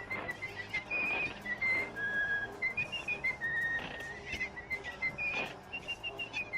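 A whistled tune of short, steady notes hopping from pitch to pitch, with quick clicks underneath.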